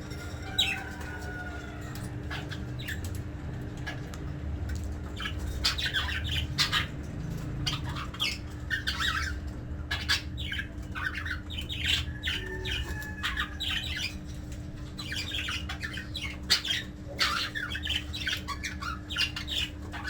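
Budgerigars chattering: frequent short squawks and chirps with a few gliding whistled notes, over a steady low hum.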